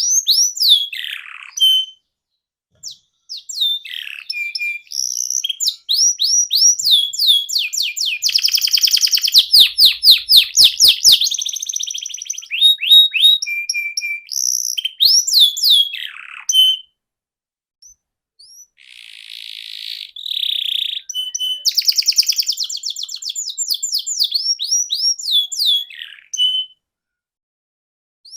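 Canary singing long phrases of rapid, repeated down-sweeping notes and rattling trills, broken by a few short pauses.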